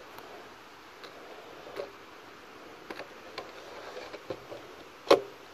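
A shotgun being handled in its homemade holder: scattered light clicks and knocks, with a sharper knock near the end.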